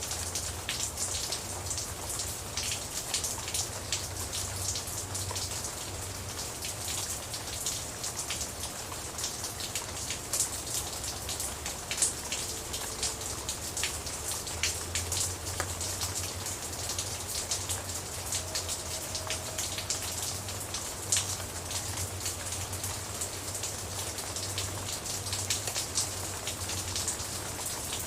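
Steady rain falling on a surface, with many separate drops ticking through a continuous hiss and a low rumble underneath.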